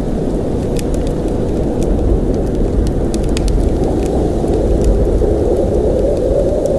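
Blizzard wind blowing steadily with a deep rumble, sprinkled with scattered faint ticks and clicks.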